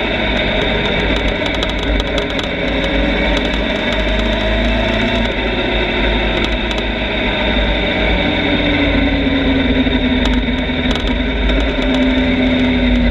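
Motorcycle engine running under way, its pitch drifting gently up and down, over a constant rumble.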